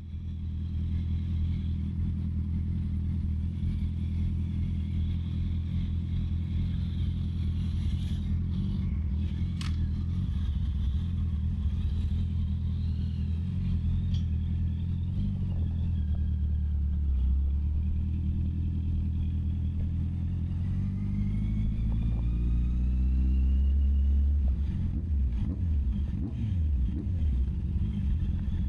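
Honda CB650R's inline-four engine running steadily, then rising in pitch about two-thirds of the way through as it revs up, with uneven rises and falls in revs near the end.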